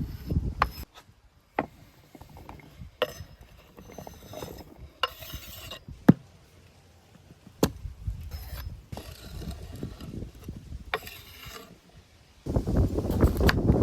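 Scattered sharp clicks and short scraping, rubbing sounds of objects being handled, with a louder low rumble starting near the end.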